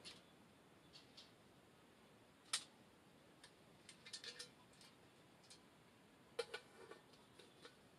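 Near silence broken by scattered short, sharp clicks and pops, the loudest about two and a half seconds in, with small clusters around four and six and a half seconds in.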